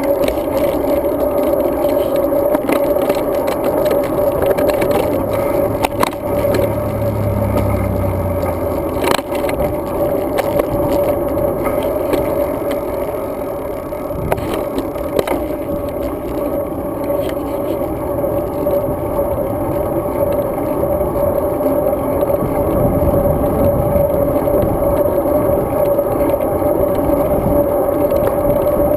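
Road bicycle riding: steady tyre and wind noise with a constant hum, broken by a few sharp knocks and rattles as the bike goes over bumps.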